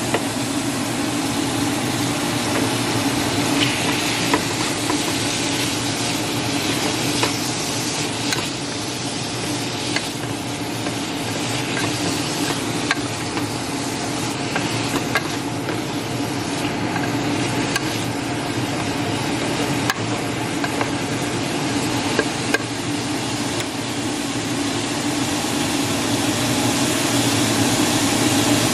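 Diced raw chicken with onions and celery sizzling in a hot pot, stirred and scraped with a wooden spatula, with a scattering of sharp clicks as the spatula knocks the pot. A steady low hum runs underneath.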